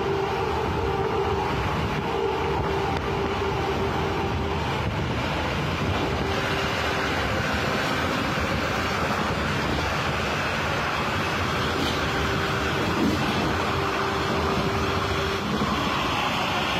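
Steady rumble and rattle of two passenger trains running side by side, heard through an open window of the moving train, with a faint steady hum underneath that fades near the end.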